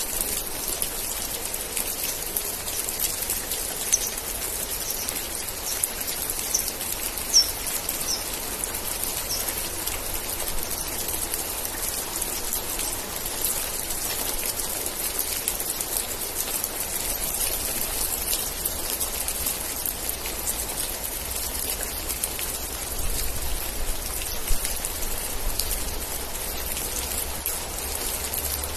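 Steady rain falling, a dense hiss of close drop hits with a few louder single drips. A run of brief high chirps sounds between about four and nine seconds in, and a low rumble comes in during the second half.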